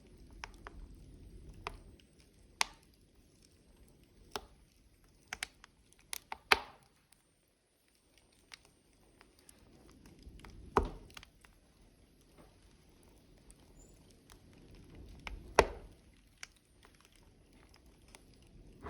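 Burning logs crackling in a wood fire, scattered small snaps with four louder sharp pops spread through.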